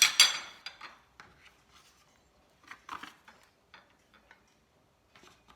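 A spoon clinking, tapping and scraping against a bowl and condiment dishes while the noodle soup is seasoned. A quick cluster of knocks comes at the start, then scattered light ticks, and a few more knocks about three seconds in.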